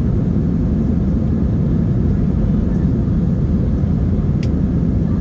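Jet airliner cabin noise: a steady low rumble of the engines and airflow heard from inside the cabin, with a faint short click about four and a half seconds in.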